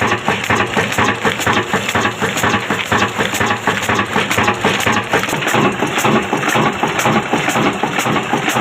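Old black stationary diesel engine running, a rapid, even knock of several beats a second over a dense clatter.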